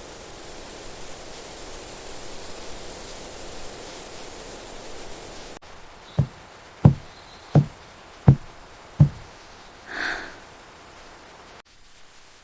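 A steady hiss of outdoor ambience, then, after a sudden change, five dull knocks in an even rhythm about three-quarters of a second apart, followed by one short, higher ringing sound.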